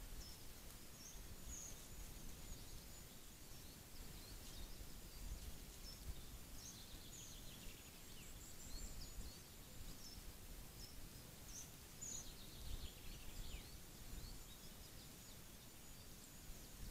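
Small birds calling faintly: scattered short high chirps throughout and a couple of falling trilled phrases, about a third of the way in and again past the middle, over a low rumble.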